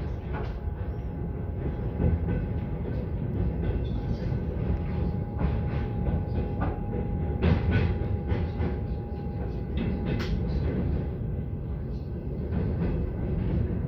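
Passenger train running over a river bridge, heard from inside the carriage: a steady rumble of wheels on rails with irregular clanks and knocks. A faint thin whine is held through the middle.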